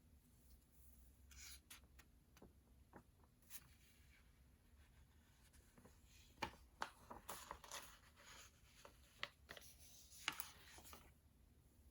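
Faint writing on paper: scratchy strokes and light taps, busiest in the second half.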